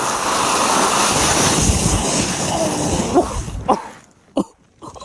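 Loud rushing, rumbling noise of a fast slide over snow, with wind on the microphone, ending abruptly about four seconds in, with a few short vocal grunts just before it stops.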